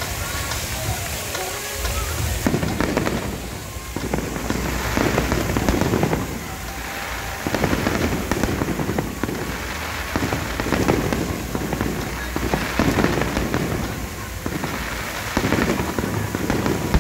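Aerial fireworks going off: shell bursts and glittering crackle effects come in waves about every two seconds, each wave a loud spray of crackling that fades before the next.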